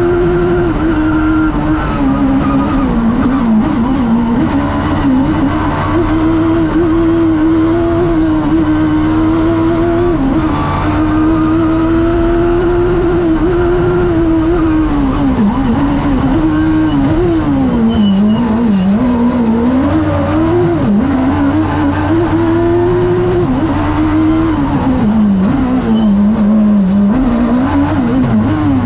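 Seat 600 JTR rally car's engine driven hard, heard from inside the cabin. The revs climb and fall again and again through gear changes and corners, and drop sharply at the very end.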